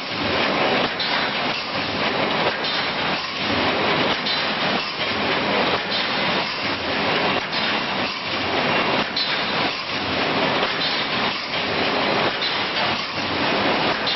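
High-speed automatic reinforcing-mesh welding machine running: a continuous mechanical clatter with a repeating welding stroke about twice a second.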